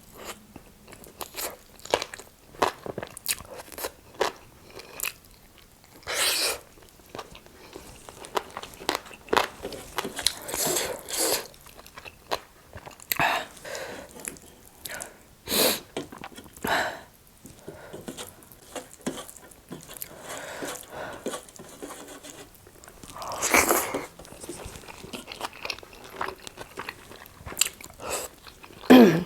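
Close-miked eating: crisp, irregular crunching as fried chicken wings are bitten and chewed, with louder crunchy bites every few seconds.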